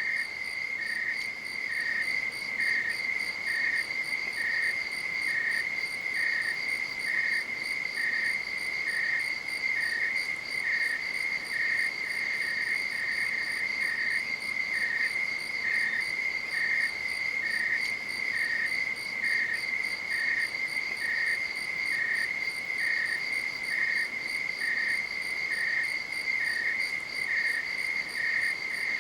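Insects calling: one keeps up a continuous high-pitched trill, while a second, slightly lower one chirps in short pulses about once a second.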